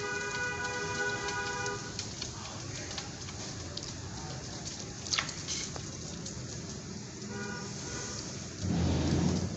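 Steady hiss of rain, with a low rumble of thunder near the end. In the first two seconds a held musical chord sounds over it.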